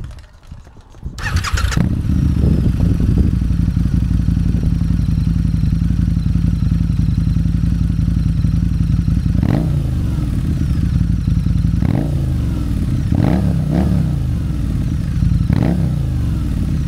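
Harley-Davidson V-Rod Night Rod Special's liquid-cooled Revolution V-twin, through an aftermarket Remus exhaust, starts about a second in and settles into a loud, steady idle. In the second half it gets about five quick throttle blips, each a short rise and fall in pitch.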